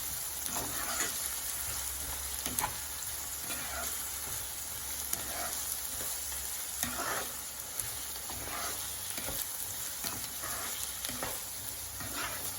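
Onions with ginger garlic paste, green chillies and curry leaves sizzling in hot oil in a pan. They are being stirred, the utensil scraping across the pan about once a second, with an occasional sharp click.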